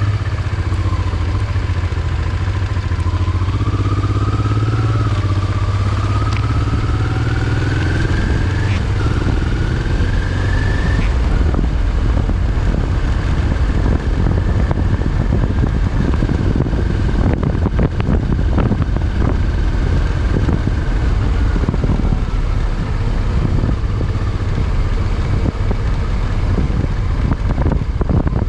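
Motorcycle engine under way. Its pitch rises as it accelerates, drops once at a gear change about nine seconds in and climbs again, then holds steady at cruising speed over a dense low rumble.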